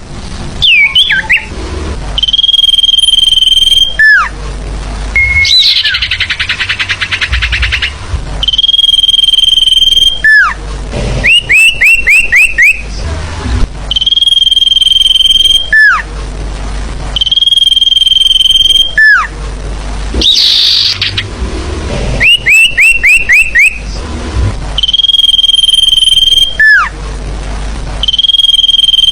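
Looped bird-lure recording of forest bird calls: a held whistle about a second and a half long that ends in a quick falling note, repeating every few seconds, with clusters of quick rising chirps in between and a buzzy rattle once.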